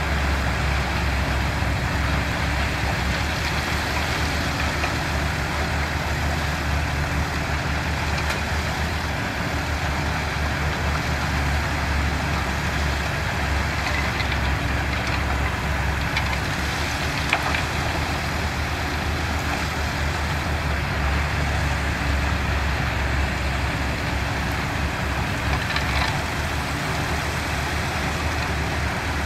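Diesel engines of heavy construction machinery, bulldozers and dump trucks, running steadily with a deep, even hum. A single sharp knock sounds about two-thirds of the way through.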